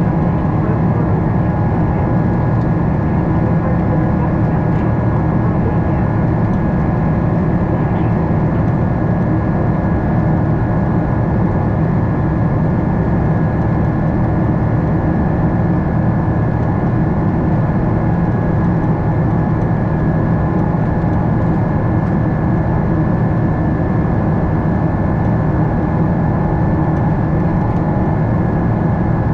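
Steady cabin noise inside a Boeing 777-300 airliner in flight: an even drone of jet engines and rushing air, with a faint steady whine above it.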